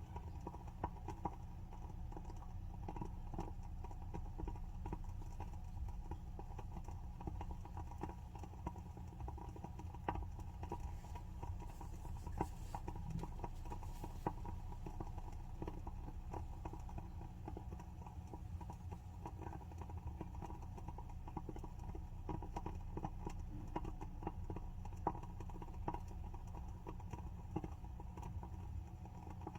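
WoodWick candle's wooden wick burning with a continuous soft, irregular crackle of small pops, now and then a louder snap.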